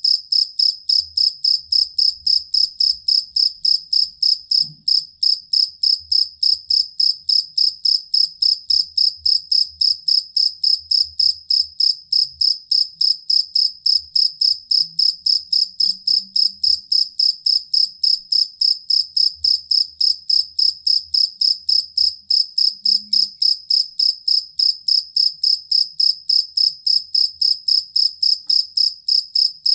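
Jangkrik kalung (two-spotted field cricket) chirping: a high, clear, even chirp repeated about three times a second without a break.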